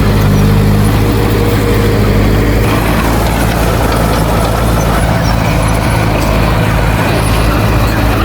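Heavy diesel engine of earthmoving machinery running steadily. Its note eases slightly about two and a half seconds in.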